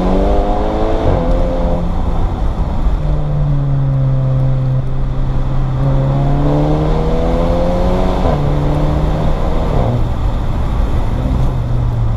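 Volkswagen Scirocco R's tuned 2.0-litre turbocharged four-cylinder, fitted with a Revo intake, heard from inside the cabin as the car pulls through the gears. The revs climb and drop at a gear change about a second in, climb again and drop near eight seconds, fall back once more near ten seconds, then run steadily.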